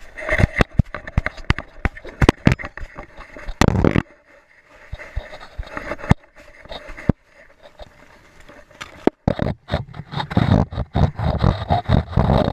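Irregular knocking, clicking and scraping of a GoPro camera strapped to a moving dog, as the mount and housing bump and rub. The knocking is dense for the first few seconds, eases off in the middle, and comes back with a low rumble near the end.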